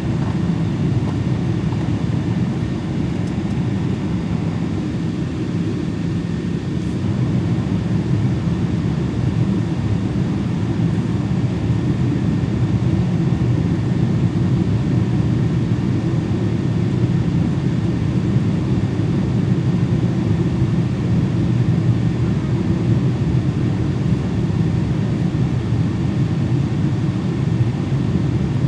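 Steady drone of a Boeing 777's engines and airflow heard inside the passenger cabin, a low even rumble that holds level throughout.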